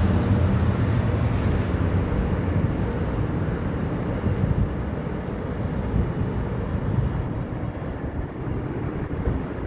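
Low rumble of an Amtrak Capitol Corridor passenger train pulling away, slowly fading, with a few light clicks in the first couple of seconds.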